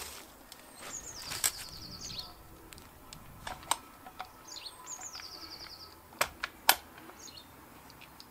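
A songbird calling twice, each call a falling high note running into a rapid trill about a second long. A few sharp knocks fall in between, the loudest near the end.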